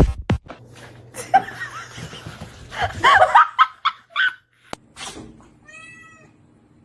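A person laughing in short high bursts, with a brief high-pitched animal call about six seconds in.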